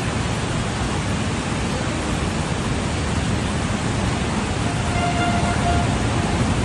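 Steady, loud rush of fast-flowing floodwater, with a faint brief pitched sound about five seconds in.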